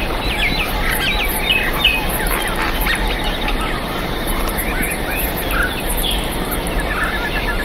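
Birds chirping and calling, several at once in short trills and notes, over a steady hiss and a fast, high pulsing.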